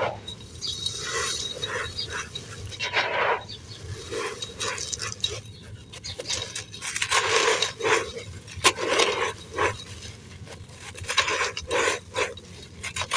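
Dry, crispy sand crumbling in a clay pot: irregular crunches and crackles that come in quick clusters.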